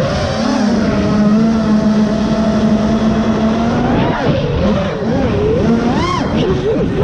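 FPV quadcopter's Grinder v1 brushless motors and propellers buzzing, holding a steady pitch for about three seconds, then swinging rapidly up and down in pitch as the throttle is worked.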